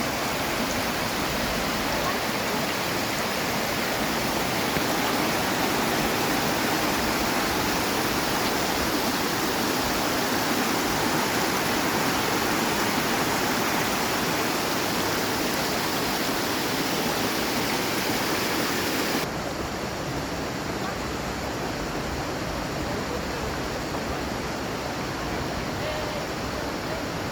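Rushing water of a mountain stream, a steady full rush. About 19 seconds in it cuts suddenly to a quieter, duller rush.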